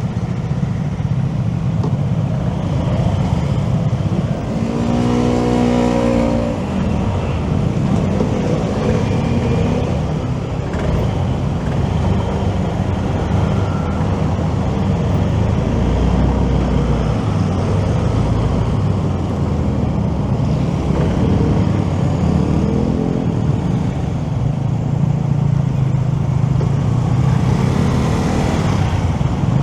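City traffic heard from a moving motorcycle: steady engine and road noise, with a vehicle's engine revving up in rising pitch about five seconds in and again, more briefly, a little past twenty seconds.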